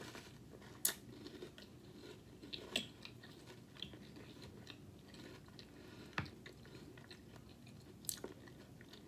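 Close-up chewing of a mouthful of Funfetti cereal in milk, with a few short sharp clicks of a metal spoon in the bowl, four in all, spread through.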